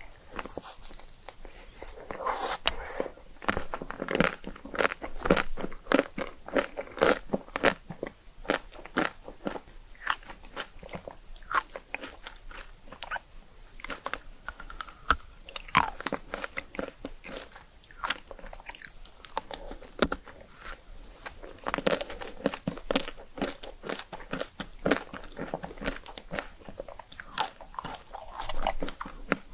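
Rice cakes topped with chocolate, Nutella and ice cream being bitten and chewed: a continuous run of crisp, irregular crunches.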